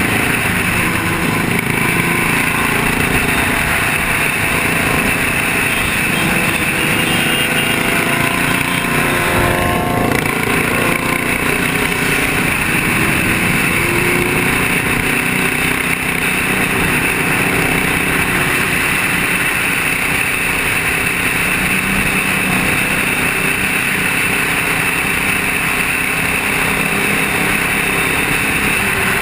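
Motor vehicle driving: steady engine and road noise, with a brief change in engine pitch and a short knock about ten seconds in.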